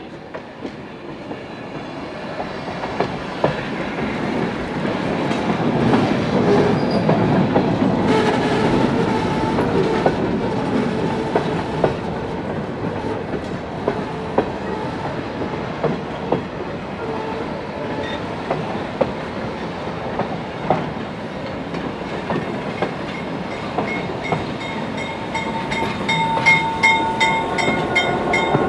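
Passenger excursion train led by a GP9 diesel locomotive passing. It grows louder over the first several seconds, then holds steady with the wheels clacking sharply over rail joints. Steady high ringing tones join near the end.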